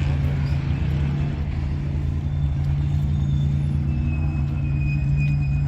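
Car engine idling steadily, with pulsing low-pitched exhaust. A faint high tone joins about four seconds in.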